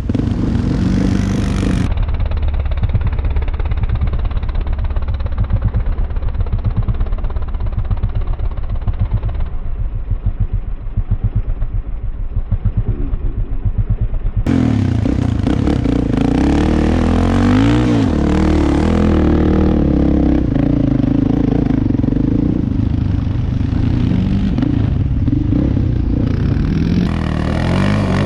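ATV engine running and revving under trail riding, its pitch rising and falling with the throttle. About halfway through the sound turns brighter and fuller.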